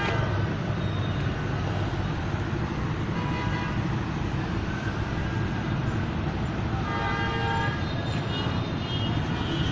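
Road traffic running steadily, with vehicle horns honking a few times, the longest about seven seconds in.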